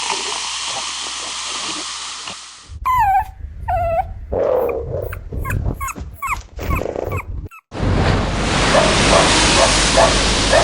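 A dog whimpering and yelping in a string of high, sliding whines. They sit between stretches of steady rushing noise, which returns abruptly near the end.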